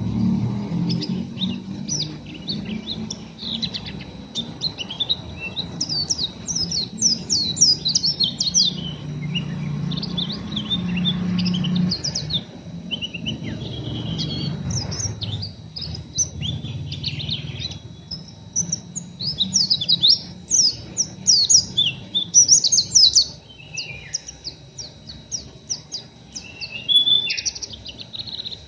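A pleci (white-eye) twittering in fast runs of short, sharp chirps: the rough twittering (ngeriwik kasar) of a raw bird not yet in finished song. A low rumble sits under it through the first half, then fades.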